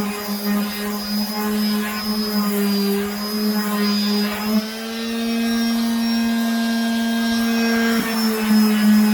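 Electric power sander running steadily against a wooden tabletop with 180-grit paper. Its hum rises slightly in pitch about halfway through and drops back near the end.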